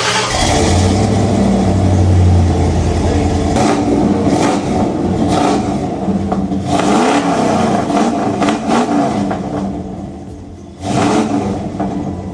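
A 1993 Ford Bronco's 5.0 V8, just started, running loud through a new homemade dual exhaust with Hedman headers and a Flowmaster 40 Series two-in two-out muffler. It holds a fast idle, then is revved several times with the pitch rising and falling, and there is one sharp rev about eleven seconds in.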